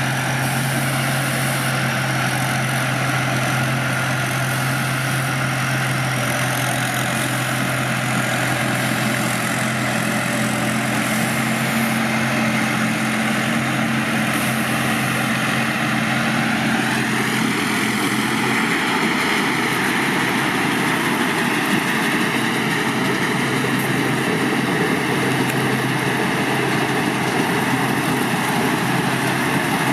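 Large Hino diesel engine of a rice combine harvester running steadily. Its note shifts upward a little past halfway through and holds there.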